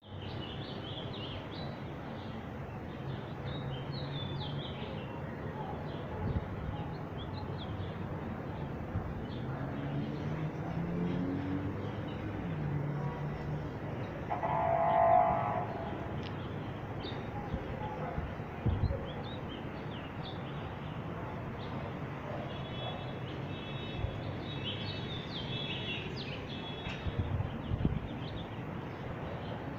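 Small birds chirping again and again over a steady background noise, with a brief louder pitched sound about halfway through.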